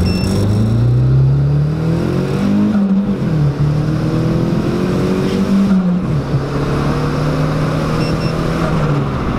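A VW Lupo's swapped-in 1.8T turbocharged four-cylinder (GT28 turbo) accelerating hard from a standstill, heard from inside the cabin. The engine pitch climbs, drops at upshifts about three and six seconds in, then climbs again.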